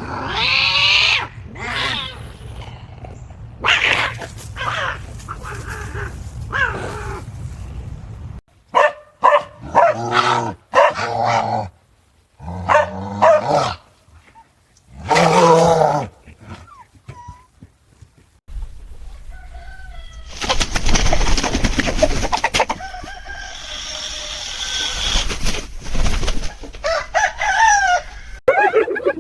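Animal calls: a run of short pitched cries and calls, then a longer stretch of noisy, rough sound.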